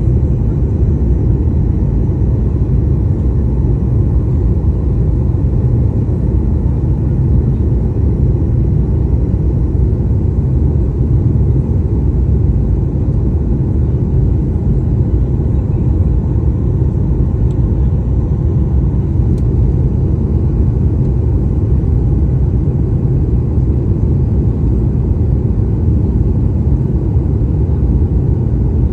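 Steady cabin noise inside a Boeing 737-800 airliner in flight: a loud, even low rumble of engine and airflow noise that does not change.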